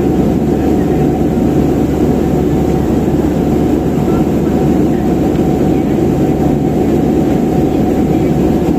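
Steady cabin noise of a passenger airliner in flight, heard from inside the cabin: a constant, deep rush from the engines and airflow.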